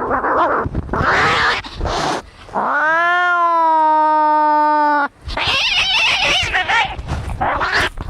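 Angry cats fighting: harsh hissing and spitting, then one long yowl that rises and holds steady for about two and a half seconds, then more harsh hissing.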